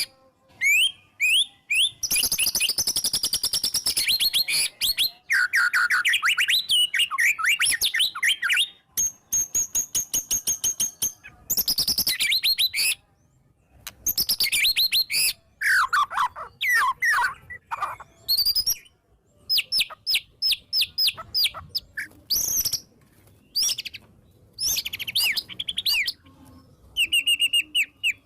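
White-rumped shama (murai batu) singing a long, varied song in full voice: loud whistled phrases sweeping up and down, fast rattling trills, and short breaks between the phrases.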